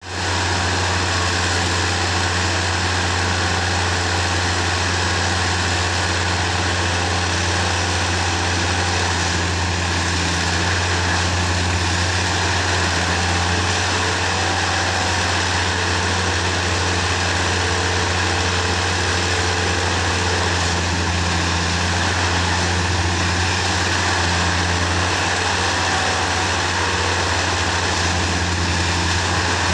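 Railway ballast tamping machine at work compacting track ballast: a steady, unbroken machine drone with a strong low hum.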